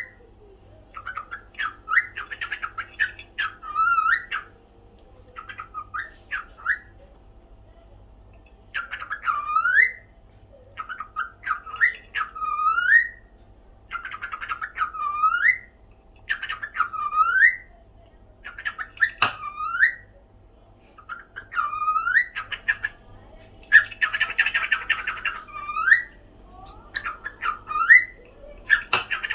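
Cockatiel calling over and over: bursts of short chattering notes, each ending in a rising upswept whistle, every second or two, with a pause of a few seconds about five seconds in. Two sharp clicks, one midway and one near the end.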